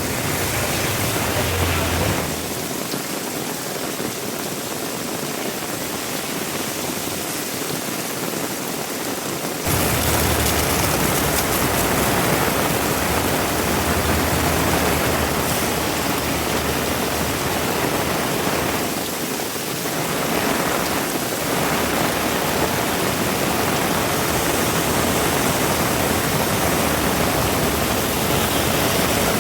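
Heavy rain falling, a steady hiss that gets suddenly louder about ten seconds in and eases briefly about two-thirds of the way through.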